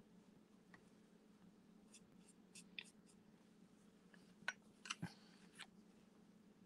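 Faint sounds of a Stampin' Blends alcohol marker colouring on paper: light scratching with a few soft clicks and taps, and a cluster of sharper clicks about four and a half to five and a half seconds in. A low steady hum sits underneath.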